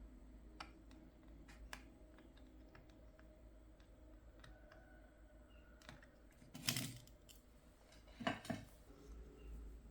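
Light scattered clicks and taps of small hard objects being handled, with two short louder clatters about seven and eight seconds in.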